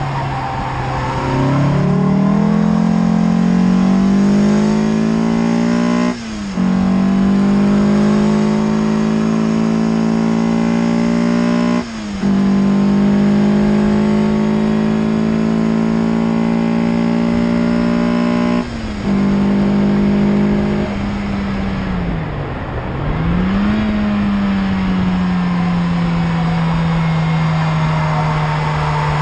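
Peugeot 306 GTi-6's four-cylinder engine pulling hard on track. The revs climb with three short breaks for upshifts about six seconds apart. Near the three-quarter mark the engine lifts off, the revs dip and rise again, and it then pulls on steadily.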